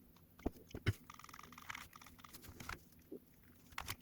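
Faint, irregular clicking of Nintendo Switch Joy-Con buttons being pressed one after another during a button test.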